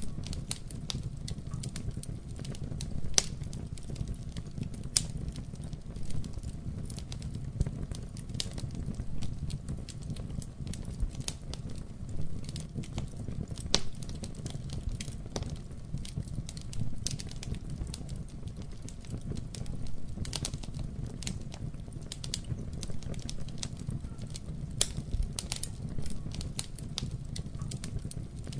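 Wood fire burning in a fireplace: a steady low rumble of flames with frequent sharp, irregular crackles and pops, a few louder than the rest.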